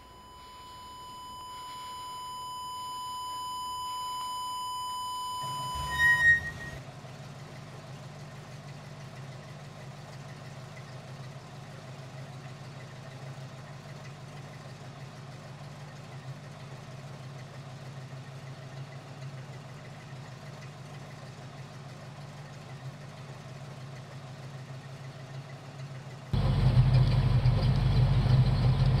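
A steady high-pitched tone swells up over the first few seconds and cuts off after about six seconds with a brief loud burst. Then a car engine runs with a low steady hum, which suddenly becomes much louder near the end.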